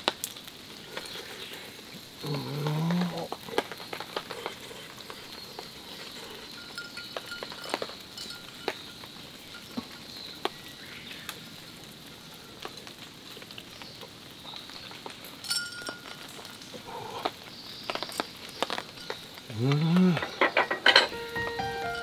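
Meat sizzling and crackling steadily in a pan. Twice a short, low, voice-like hum rises in pitch: once about two seconds in, and again near the end.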